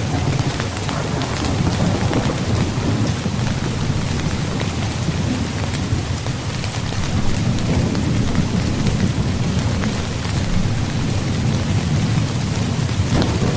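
Heavy rain pattering on a tent's fabric, with many small drop ticks over a low rumble that swells and eases.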